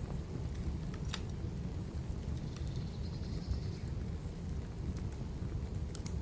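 Fireplace fire crackling, with a few sharp pops over a steady low rumble, and a brief faint high trill in the middle.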